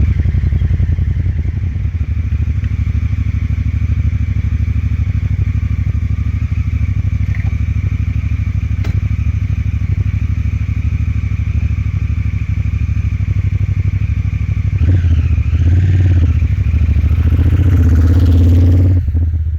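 2017 Honda Africa Twin's parallel-twin engine idling steadily. About fifteen seconds in it revs up and down and gets louder as the bike pulls away, then cuts off suddenly.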